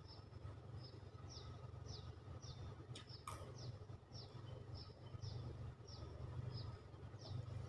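A bird calling a short, falling chirp over and over, about two a second, faint over a low steady hum; two light clicks sound about three seconds in.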